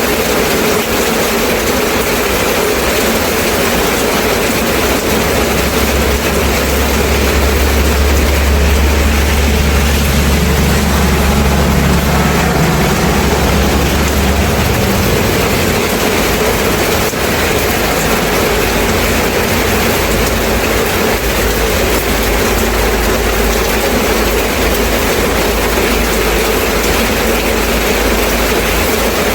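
Steady heavy rainfall, an even hiss. A deep low rumble swells in about six seconds in and dies away about nine seconds later, leaving a fainter low hum under the rain.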